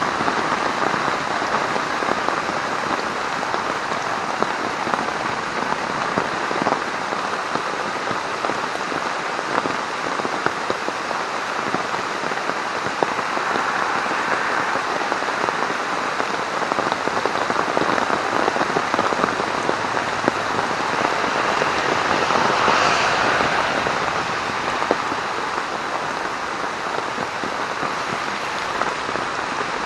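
Heavy rain falling steadily on a military poncho rigged as a tarp and on a bivy tent, a dense patter of drops that grows slightly heavier a little past two-thirds of the way.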